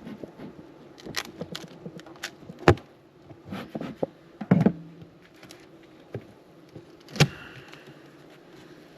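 Beehive being worked: scattered sharp clicks and wooden knocks of a hive tool and frames being pried and lifted from the boxes, the loudest knock about three seconds in, over a faint steady hum of honeybees.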